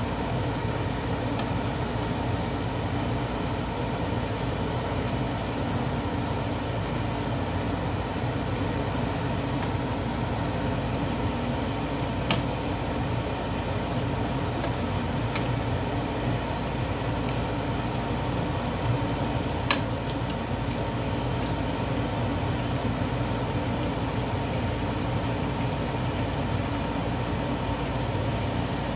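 Plantain pieces sizzling gently in oil in a nonstick frying pan, over a steady low hum. A few sharp clicks of tongs against the pan come through the middle.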